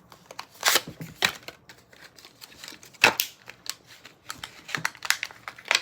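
Packaging being handled and torn open: irregular crinkling and rustling with sharp clicks.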